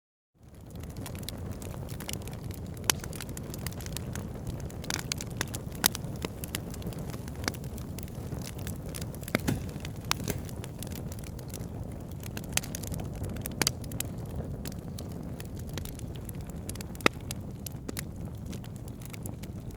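Wood campfire crackling, with sharp pops scattered over a steady low rush of burning, a few louder snaps every few seconds. It comes in after a brief moment of silence at the very start.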